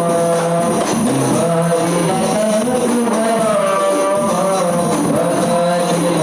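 Rebana frame drums playing a steady rhythm under a held, slowly wavering melodic line.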